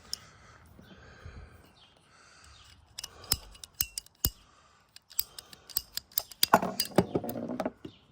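A series of sharp clicks and snips, sparse at first and coming thick and fast in the last few seconds.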